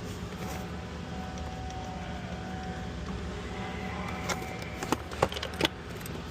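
A steady background hum, then a few sharp metallic clicks and clinks of a hand tool and a small fastener being worked loose in an engine bay, starting about four seconds in.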